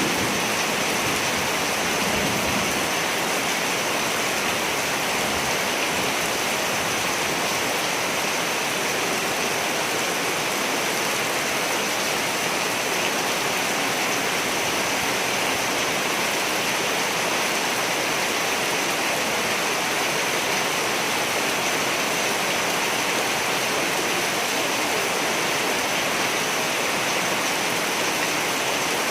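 Steady, heavy rain falling, an even hiss of drops without a break. A low thunder rumble dies away in the first few seconds.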